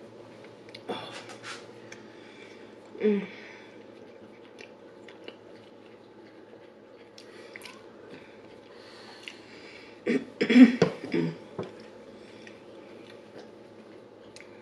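Close-miked chewing and mouth sounds of a person eating, with short clicks here and there. There is a brief louder sound about three seconds in and a louder cluster around ten seconds in.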